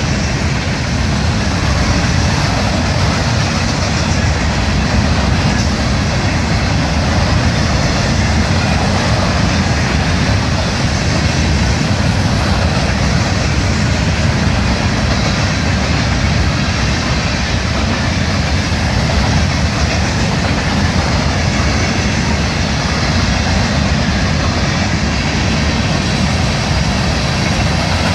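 Florida East Coast Railway freight train's cars rolling past on the rails, a steady loud rumble and wheel clatter with no letup.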